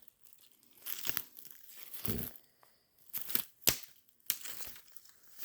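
Footsteps crunching through dry leaf litter and brush, an irregular series of crackling steps. A sharp twig snap about three and a half seconds in is the loudest sound.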